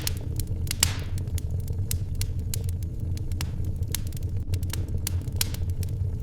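Wood fire crackling, with frequent irregular snaps and pops over a steady low rumble; one louder pop just under a second in.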